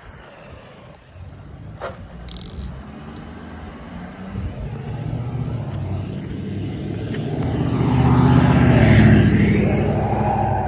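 Traxxas XRT RC monster truck on 12S power, with an 1100kv brushless motor and belt drive, running over the ground. Its motor and drivetrain whine and the tyre noise grow steadily louder and are loudest about three-quarters of the way in, then ease off a little.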